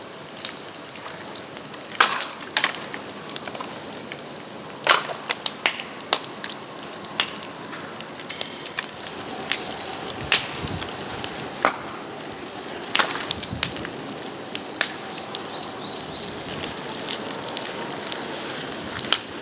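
Bamboo burning in a bonfire: sharp cracks and pops at irregular intervals over a steady hiss of flames, the hiss growing a little louder about halfway through.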